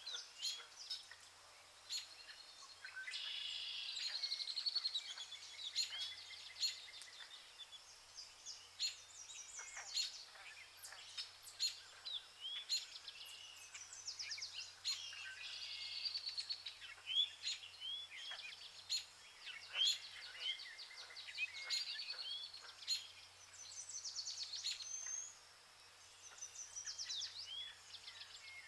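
Several birds calling at once in a tropical forest chorus: short chirps, rapid trills and upslurred whistles overlapping throughout, with a faint steady low hum beneath.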